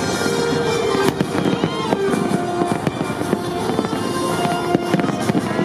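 Fireworks going off in a dense run of sharp bangs and crackles, one especially strong bang about a second in, with music playing underneath.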